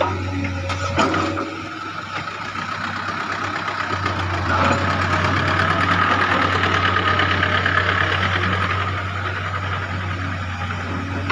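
Excavator's diesel engine running, with a couple of sharp knocks about a second in. The engine load rises from about four seconds in and then eases off toward the end.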